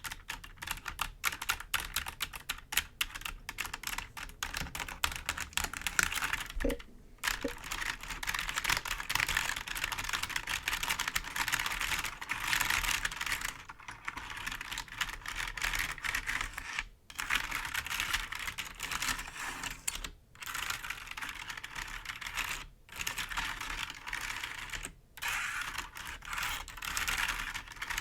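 Computer keyboard being played for ASMR: quick clicking taps on the keycaps for the first few seconds, then fingernails scratching across the keys in long strokes with brief pauses every two to three seconds.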